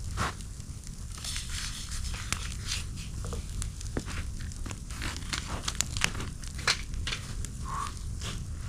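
Campfire crackling: irregular sharp pops and crackles over a low steady rumble.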